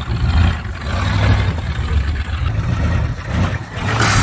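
Lifted off-road truck's engine revving hard in repeated surges under load, rising and falling several times.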